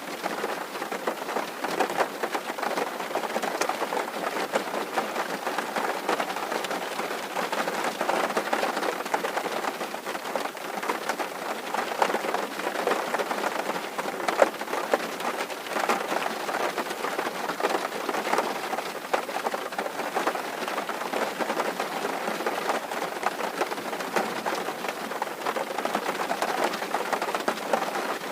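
Steady rain on a tin roof: a dense, even patter of many small drop hits.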